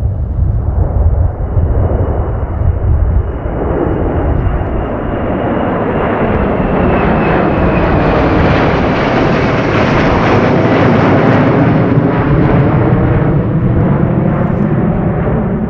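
Tupolev Tu-154M's three D-30KU turbofan engines as the jet passes, a broad roar with a high whine that slowly drops in pitch, building to its loudest around the middle and easing near the end. Gusts of wind buffet the microphone in the first few seconds.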